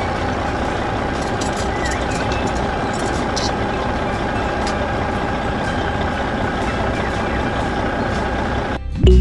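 A motor running steadily, a constant mechanical drone with a faint high whine, with music cutting in abruptly near the end.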